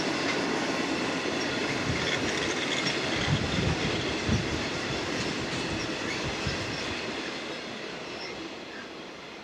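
Wheels of the California Zephyr's trailing baggage car and material handling cars rolling past on the rails, a steady rumble with clickety-clack and a few heavier thumps about three to four and a half seconds in. The sound fades as the end of the train moves away.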